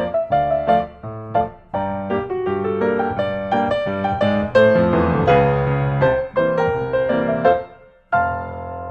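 Background piano music: a series of struck notes and chords at a moderate tempo, dipping briefly near the end before resuming.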